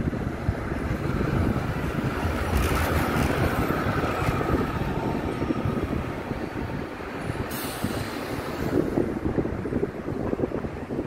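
Electric train rolling slowly over the station approach points, its wheels rumbling on the rails. A faint whine rises over the rumble for a few seconds, and a brief hiss comes about seven and a half seconds in.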